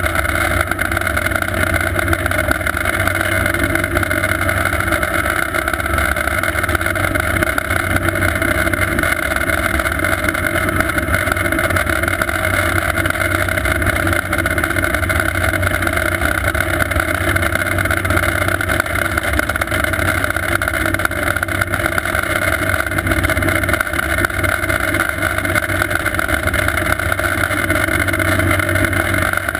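Sikorsky S-58T twin-turbine helicopter running steadily, its engines and rotor making a constant drone that holds the same pitch and level throughout.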